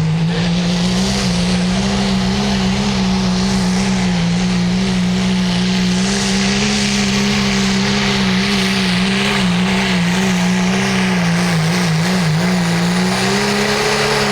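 Pulling tractor's engine held at full throttle through a pull, a loud steady drone with a pitch that wavers a few times near the end, over hiss from the tyres and track.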